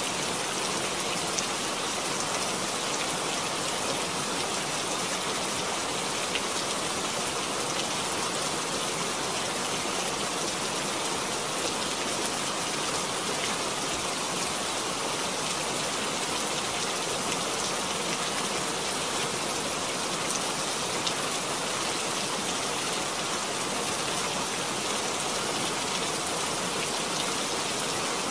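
Steady rain falling: an even, unbroken hiss of drops, with scattered faint ticks of single drops.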